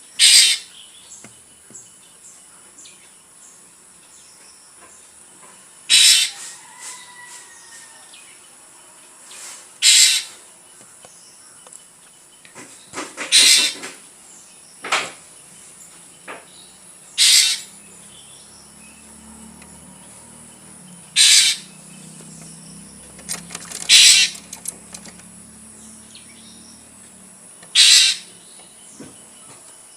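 Drongo giving short harsh calls, about eight of them spaced a few seconds apart.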